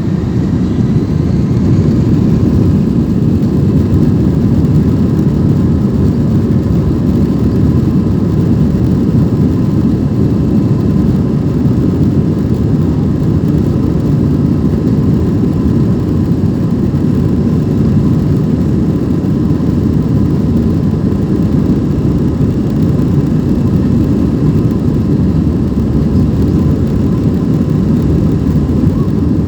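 Airbus A320 cabin noise in flight: the jet engines and rushing air make a steady, loud low rumble with a faint thin whine on top.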